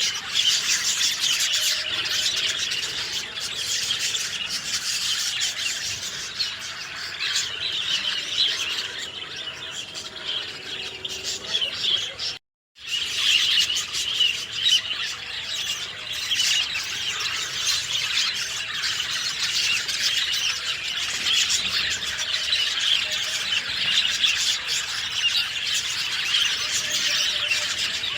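Many small birds chirping and twittering together in a dense, overlapping chorus, with high squeaky calls. The sound cuts out completely for about half a second near the middle, then resumes.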